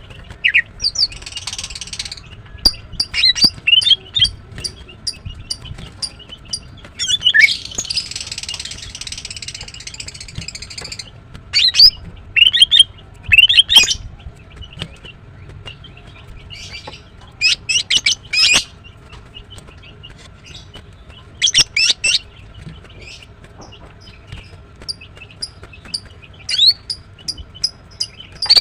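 Female greater green leafbird calling in bursts of short, sharp, high chirps and squeaks, with two longer harsh, hissing stretches about a second in and around seven to eleven seconds in. It is a female in breeding condition calling to males.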